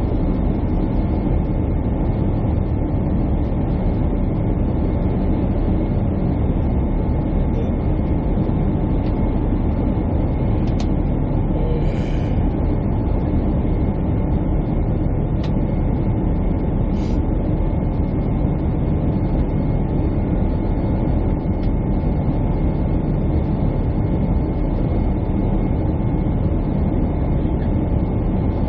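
Steady airliner cabin noise: jet engines and rushing airflow droning evenly, with a few faint ticks near the middle.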